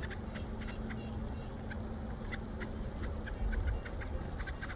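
Soft chatter of young chickadees and nuthatches calling to each other: many brief, faint high chips and ticks at irregular intervals. A faint steady low hum runs underneath and stops about three-quarters of the way through.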